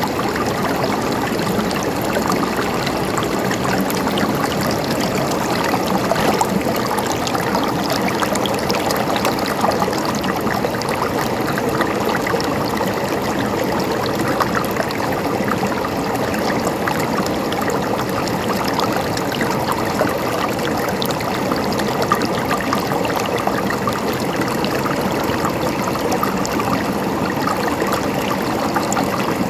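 Mountain stream flowing and gurgling over rocks: a steady, dense splashing and bubbling with no pauses.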